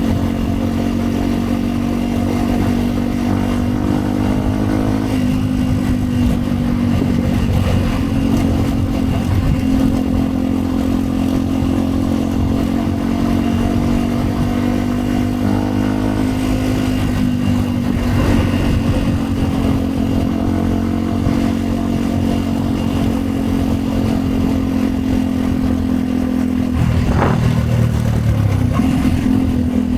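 Yamaha WR 125 X's single-cylinder four-stroke engine running through a Yoshimura aftermarket exhaust, riding at fairly steady revs with small rises and falls in pitch. The engine note changes sharply about 27 seconds in.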